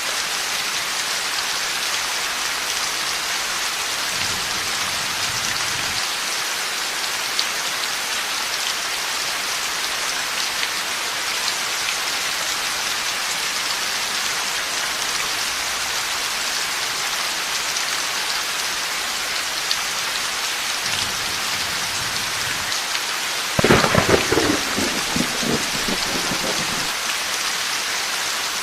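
Heavy steady rain, with faint distant rumbles of thunder. Near the end a sudden thunderclap breaks out, the loudest sound, and rumbles for about three seconds.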